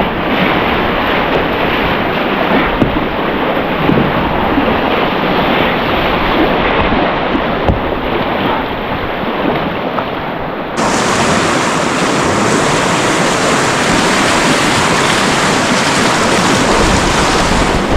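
Surf breaking and water rushing around a kayak, with wind buffeting the microphone. About eleven seconds in the sound abruptly becomes brighter and a little louder.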